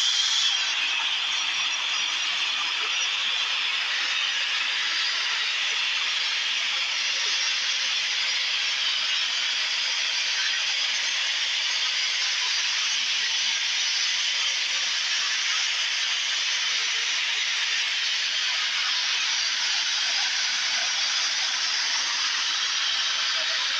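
A steady, even hiss with no engine note beneath it.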